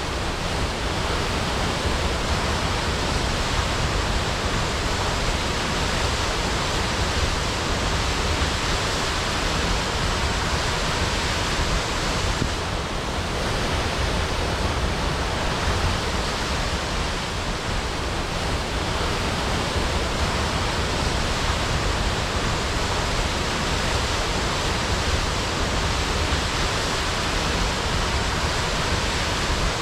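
Waterfall crashing: a steady, unbroken rush of falling water with a deep rumble underneath.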